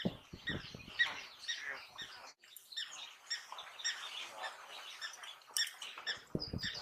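African wild dogs twittering, many short, high-pitched chirps in quick succession, the calls a pack makes while feeding at a kill. A few low bumps come in the first second and near the end.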